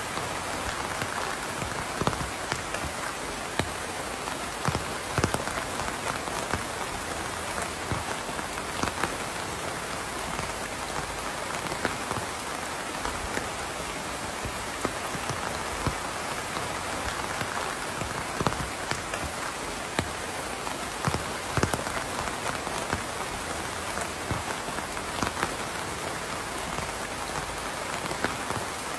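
Steady rain falling on a surface, an even hiss with many louder individual drops striking close by.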